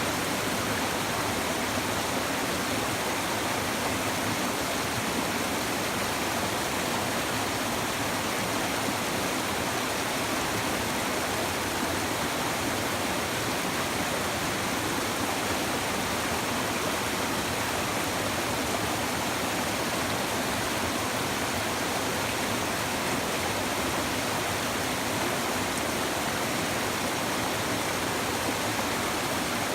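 Shallow river water babbling over stones, a steady, even rush with no breaks.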